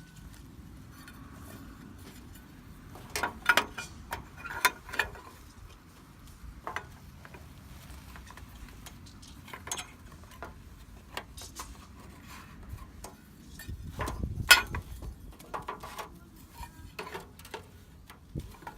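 Scattered clinks and knocks of camp tableware and gear being handled and set down, the loudest about fourteen and a half seconds in.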